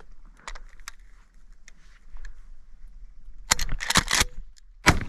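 A quick volley of shotgun shots from several hunters firing at doves, about three and a half seconds in, then another sharp shot near the end. A few faint clicks come before them.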